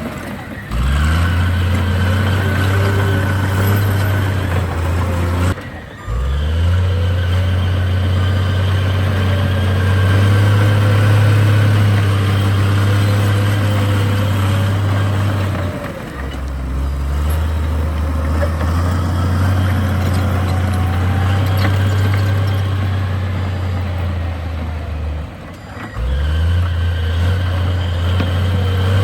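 Heavy diesel engine of earthmoving machinery running steadily under load. The sound breaks off sharply three or four times and comes back with a rising pitch.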